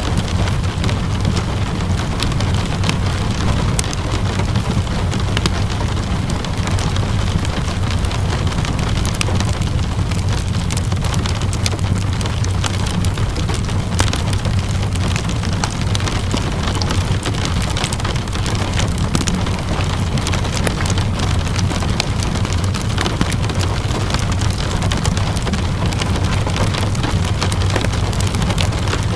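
Steady rainfall mixed with the crackle of a wood fire: scattered sharp pops and ticks over an even hiss, with a steady low rumble underneath.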